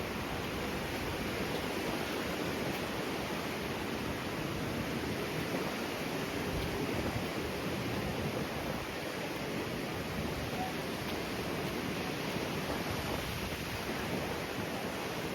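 Strong wind blowing, a steady rushing noise with a low buffeting rumble.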